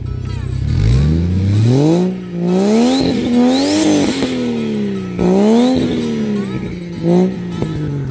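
A vehicle engine revving, its pitch climbing and dropping sharply several times, then falling away near the end.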